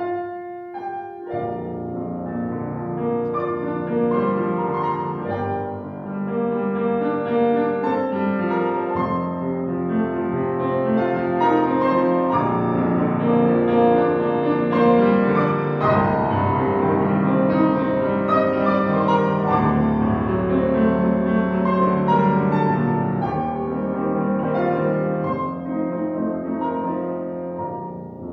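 Classical piano music: a piano starts playing out of silence at the very start and goes on with full, sustained chords and melody.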